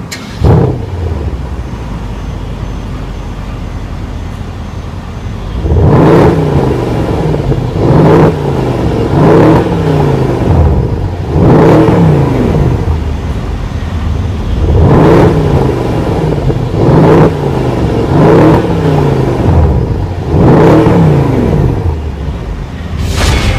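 Mercedes-Benz CLS63 AMG S-Model's twin-turbo V8 starting with a loud flare, settling to idle, then revved in a series of about eight blips from about six seconds in, each rising and falling in pitch.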